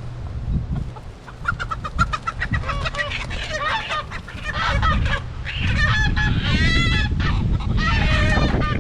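Chickens squawking in alarm, a run of short repeated squawks starting about a second and a half in and growing thicker toward the end, as a silkie rooster is chased and caught by hand.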